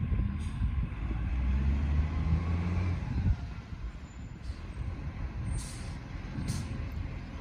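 Garbage truck engine running, louder for the first three seconds and then easing off, with two short hissing bursts near the end.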